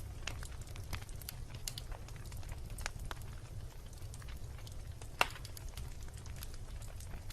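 Wood campfire burning with scattered sharp crackles and pops, one louder pop about five seconds in, over a steady low rumble.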